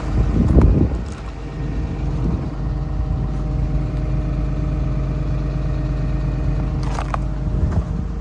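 Komatsu PC210LC-10 excavator's six-cylinder diesel engine idling steadily. A short, louder rustling burst comes about half a second in.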